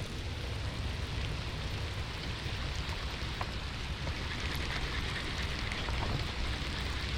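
Heavy rain pouring steadily, with scattered drops ticking close to the microphone over a low rumble.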